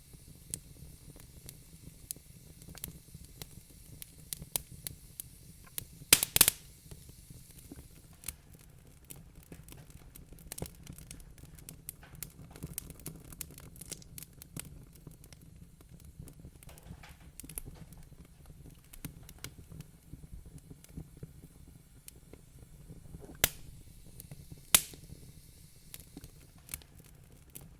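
Wood fire crackling in a fireplace: irregular small snaps and pops over a low steady rumble, with a loud burst of pops about six seconds in and two sharp pops near the end.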